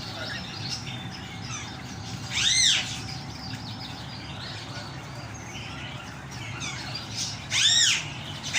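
Many birds chirping and twittering together. A loud call that rises and then falls in pitch stands out about two and a half seconds in and again near the end.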